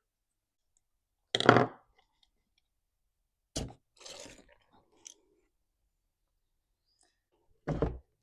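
Tools and saw parts handled on a workbench: a loud clatter about a second and a half in, a sharp click, a short rustle, a small click, and a thump near the end, with silence between.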